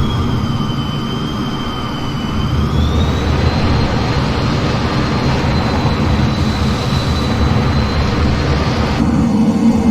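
F-15 jet engines and rushing air in flight, a steady loud noise with a thin high whine. The whine dips in pitch about a second in and rises back around three seconds in.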